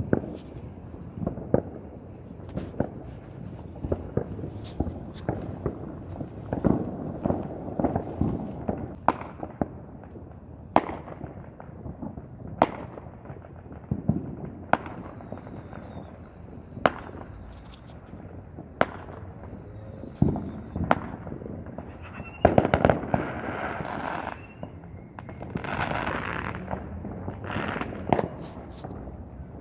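Fireworks going off, with sharp bangs at irregular intervals throughout. Denser stretches of crackling come in the last third.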